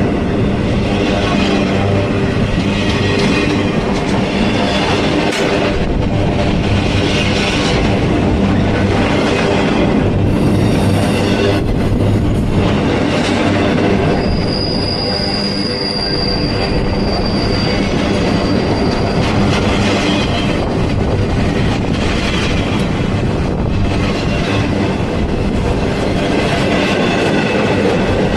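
Freight train rolling past, its cars rumbling and clattering over the rails, with a high steel wheel squeal for a few seconds around the middle.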